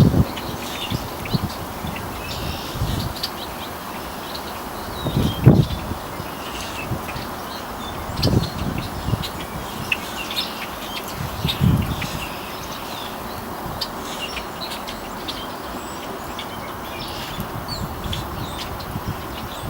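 Many small birds chirping at once in short, scattered calls, over a steady outdoor hiss, broken four times by a short dull low thump.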